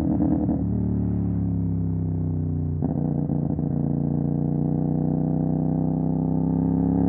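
CFMOTO 450 SR parallel-twin engine running through an MSH G6 full-system exhaust while riding. The note slowly falls in pitch, with two brief choppy breaks, one near the start and one about three seconds in.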